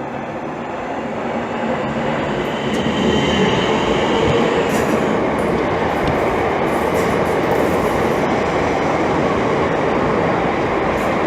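Electric multiple-unit passenger train rolling along the platform, getting louder over the first few seconds and then running loud and steady, with faint high wheel squeaks now and then.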